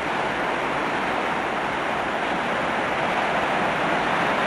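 Flood-swollen river rushing past: a steady, even noise of fast-moving water.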